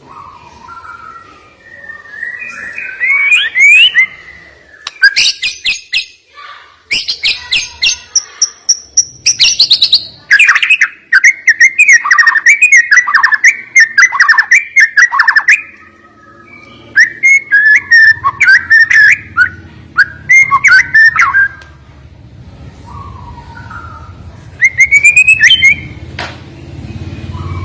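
White-rumped shama (murai batu) singing a loud, varied song: whistled phrases and sliding notes mixed with rapid strings of sharp, clicking notes, broken by short pauses.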